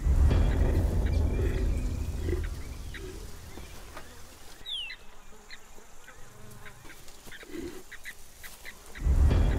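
Birds calling in short, scattered calls, with one brief falling whistle about halfway through. A loud low rumbling noise fills the first two seconds or so and comes back abruptly near the end.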